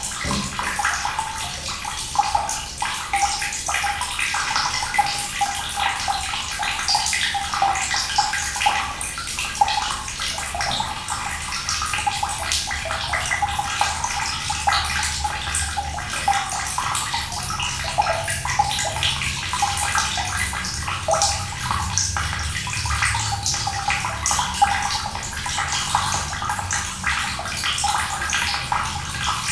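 Water running steadily with small splashes, as from a tap or a small stream.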